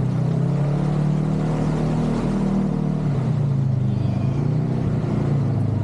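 A vehicle engine running at low, fairly steady revs, its pitch drifting slightly up and down.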